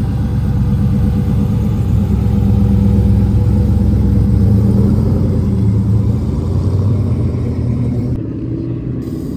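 A car engine running with a deep, steady rumble. The higher part of the sound cuts off abruptly about eight seconds in.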